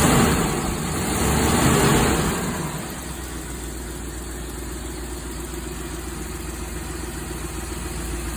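Dodge 440 big-block V8 blipped twice on the throttle, picking up quickly on its rebuilt carburetor, then settling back to a steady idle about three seconds in.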